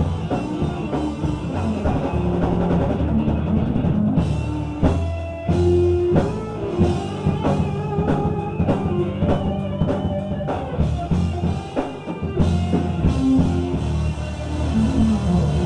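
Gospel band playing an instrumental with drum kit, bass and guitar, a steady beat under held bass notes.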